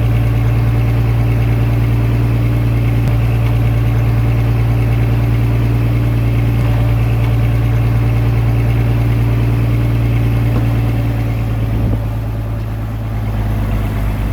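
Komatsu D21A mini bulldozer's diesel engine running steadily with a low, even hum. The sound eases slightly about twelve seconds in.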